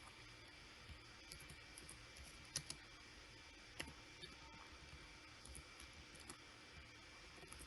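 Faint, irregular clicks of a computer mouse and keyboard over a quiet room hum, with two louder clicks close together about two and a half seconds in.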